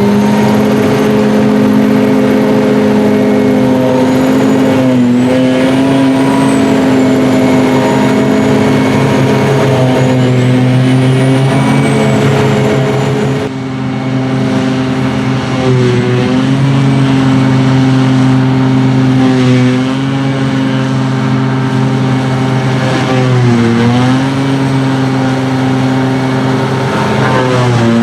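Heavy diesel engine of silage-harvesting machinery running at high, steady revs, its pitch dipping briefly under load several times, with a faint high whine that rises and falls.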